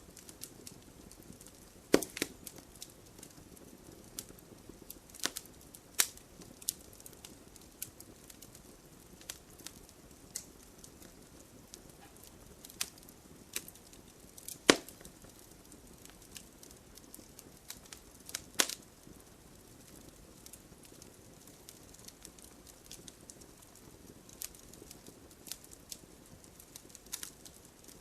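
Wood fire in a fireplace, the logs crackling. Irregular sharp pops and snaps come over a soft steady hiss, with a handful of louder pops spread through.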